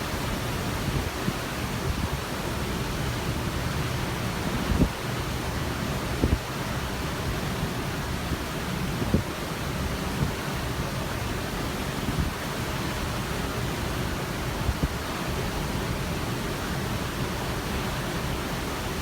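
Steady rush of sea water and wind alongside a cruise ship, with a few brief low thumps.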